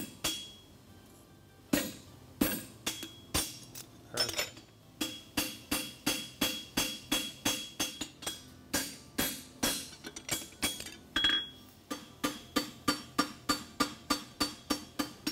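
Farrier's hammer striking a hot steel horseshoe on an anvil, each blow ringing. A few scattered blows at first, then a steady run of about three blows a second.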